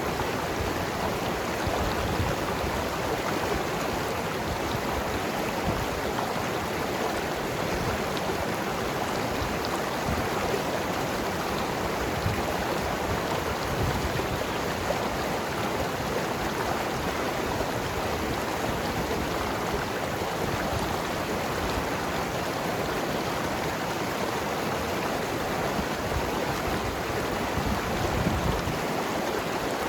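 Mountain river rushing and gurgling over rocks, a steady water sound.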